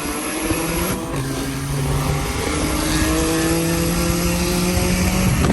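Car engine pulling hard under acceleration, its pitch climbing slowly and stepping at gear changes about a second and about two and a half seconds in.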